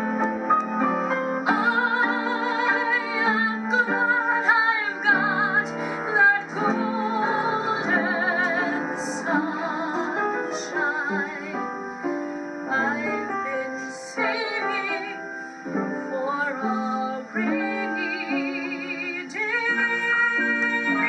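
A woman singing a sentimental vaudeville-style song with a wide vibrato over piano accompaniment.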